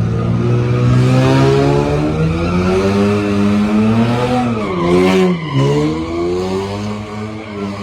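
Car engine revving hard, its pitch climbing slowly, dropping sharply about five seconds in, then rising again.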